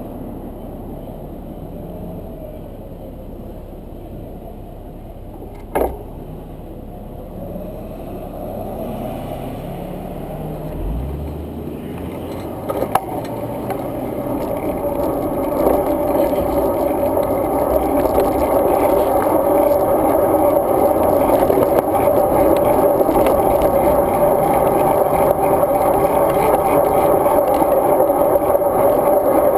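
Wind and tyre noise on a bicycle-mounted action camera during a ride. It grows louder over the first half and then holds steady, with a sharp click about six seconds in.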